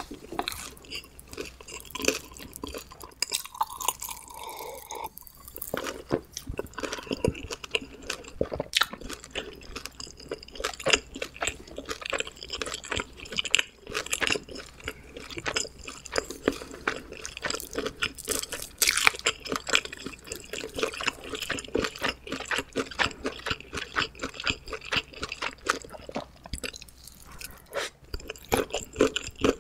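Close-miked chewing of homemade pizza: a dense, uneven run of mouth clicks and smacks.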